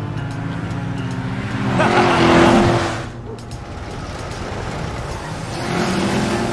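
Cartoon truck engine sound effect, a vehicle driving with a steady engine note, swelling louder about two seconds in and again near the end.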